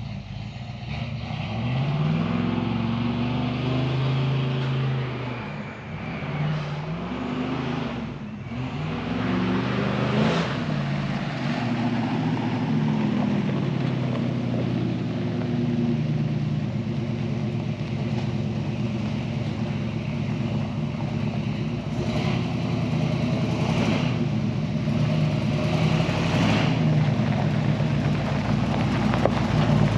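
Ford 400 cubic-inch V8 of a 1980 Bullnose pickup, revved up and down several times in the first dozen seconds, then running more steadily and slowly getting louder.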